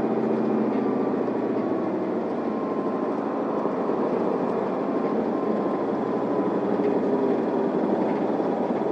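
Isuzu Erga city bus under way, heard from inside the passenger cabin: the diesel engine runs steadily under road noise.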